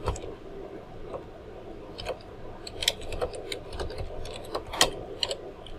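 Faint, irregular short clicks and taps over a steady low hum.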